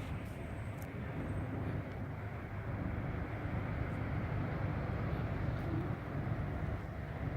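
Steady low engine rumble with a faint constant hum, as of a large ship's diesel engines running.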